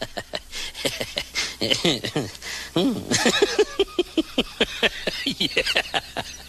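A pet animal giving many short, rapid cries in quick succession, each falling in pitch, with small clicks in between.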